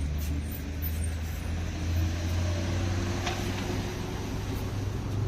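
Motor vehicle engine running nearby, a steady low rumble, with a brief click about three seconds in.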